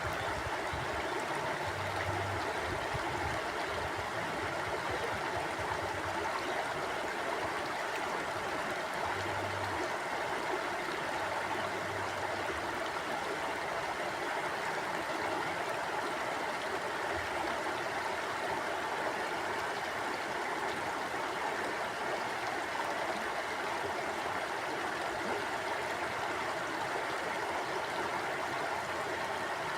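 Mountain stream flowing over rocks: a steady rushing of water with gurgling, even throughout.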